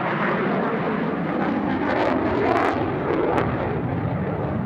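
F-35A Lightning II fighter jet's afterburning turbofan engine in flight: loud, steady jet noise, swelling slightly a couple of seconds in.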